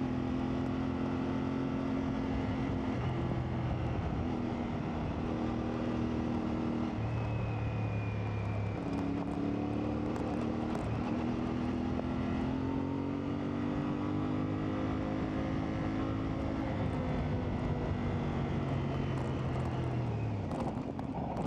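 CFMoto 450MT parallel-twin motorcycle engine running while riding off-road. The engine note rises and drops in steps every few seconds as the throttle and gears change.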